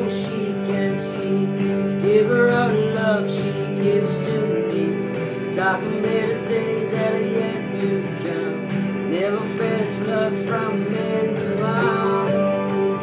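Music: an acoustic guitar playing steadily, with a singing voice coming in at intervals.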